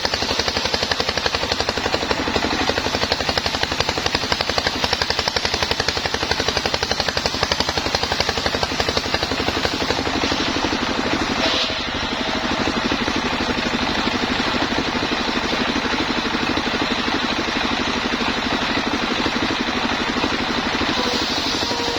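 Homemade engine-driven sawmill running steadily, with a rapid even pulse. About halfway through there is a brief high squeal, after which the running becomes slightly quieter and smoother.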